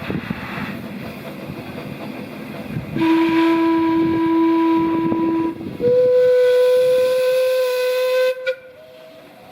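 Narrow-gauge locomotives of a multiple-headed train sounding their whistles in turn. First a lower-pitched whistle blows for about two and a half seconds, then after a short gap a higher-pitched one blows for about two and a half seconds, cutting off near the end. Before the whistles, the train runs with a rumbling clatter.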